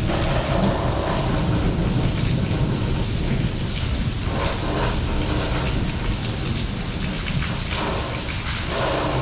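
Steady rain falling on surfaces, with thunder rumbling low underneath.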